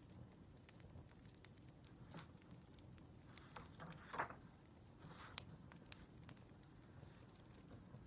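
Faint crackling of a wood fire, with scattered sharp pops, and a brief soft rustle about four seconds in.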